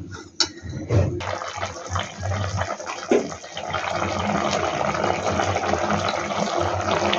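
Steady rushing of running water, like a tap left open, starting about a second in after a couple of brief knocks.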